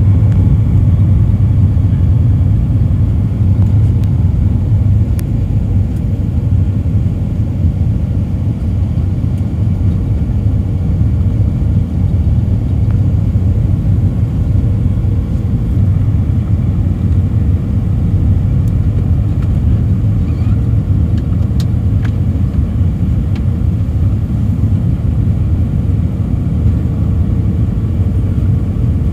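Steady low rumble of engine and airflow noise inside the cabin of an Airbus A319 airliner in flight, with a faint steady hum above it.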